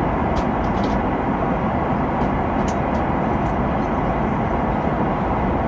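Steady cabin noise inside an Airbus A330-900neo airliner: an even roar of engines and airflow that sets in abruptly and holds level, with a few faint ticks of cabin rattle.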